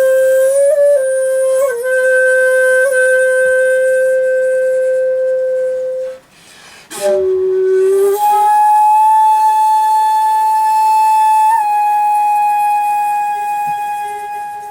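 Solo shakuhachi playing long held notes in a komuso-style honkyoku piece: one note held about six seconds with small bends, a pause for breath, a short lower note with a breathy attack, then a higher note held and fading out near the end.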